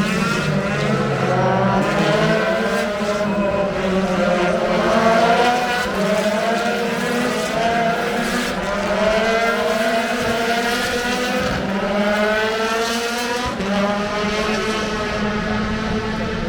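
Race car engines on the circuit accelerating through the gears, their pitch climbing and dropping back at each shift, over and over, with several cars overlapping.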